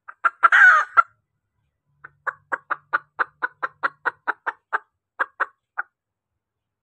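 A junglefowl hen calling: a short harsh squawk about the first second, then a run of about fourteen quick clucks at roughly four a second that stops about six seconds in. This is the hen's call used to draw in males.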